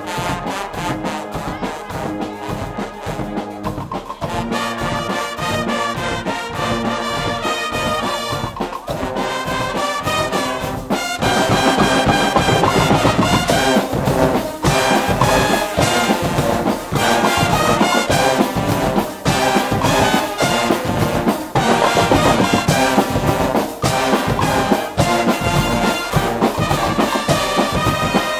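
Guggenmusik band playing: loud brass over a steady, regular drum beat. About a third of the way in, the music gets louder and fuller.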